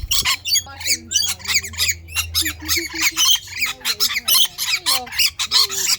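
A flock of lorikeets screeching and chattering nonstop, many rapid, shrill calls overlapping.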